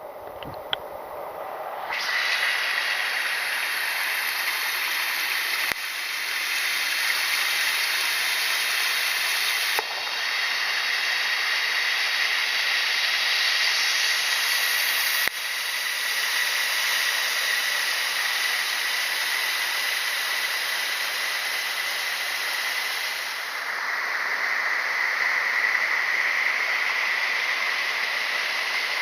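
Waterfall water rushing and splashing in a steady hiss. It starts about two seconds in and its tone shifts abruptly a few times.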